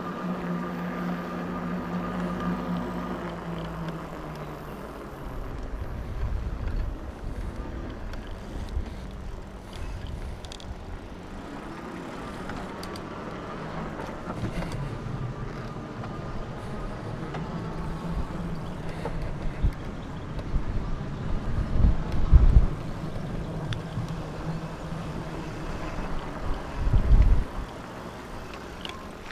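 Wind buffeting an action-camera microphone while riding an e-bike: a low, gusty rumble with strong swells about 22 and 27 seconds in. A steady hum at the start fades out within the first few seconds.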